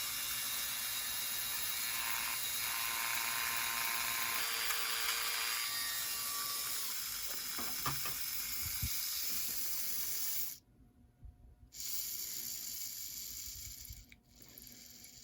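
The small motor and gear drive of an old Bachmann HO-scale model locomotive running, spinning its wheels while a wire wheel brushes against them: a steady whirring with a gritty scratching hiss. It cuts off suddenly about ten and a half seconds in, starts again about a second later, then fades near the end.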